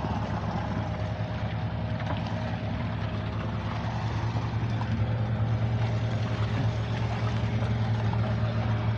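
Fishing boat's engine running steadily, a low even hum with a rapid regular beat.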